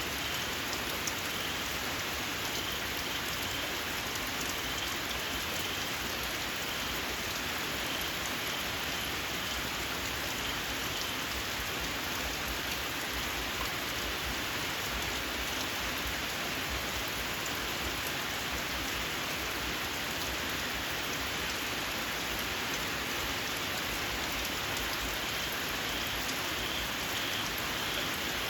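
Steady rain falling, with small frogs chirping faintly in short repeated pips a few seconds in and again near the end.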